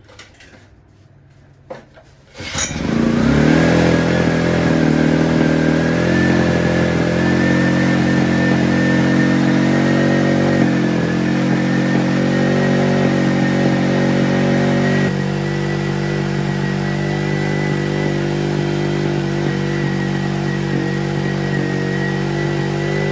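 Restored Honda generator's small engine starts suddenly about two and a half seconds in and then runs steadily, with a thin steady whine above the engine note. About fifteen seconds in, the running note shifts and drops a little in level, then holds steady.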